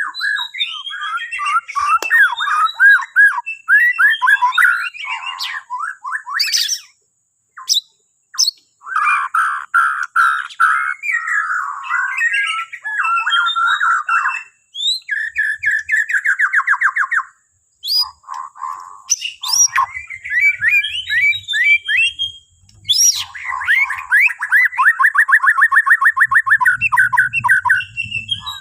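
Bornean white-rumped shama singing: varied phrases of whistles and chattering notes with short pauses, including rapid trills, the longest a fast, even trill lasting several seconds near the end.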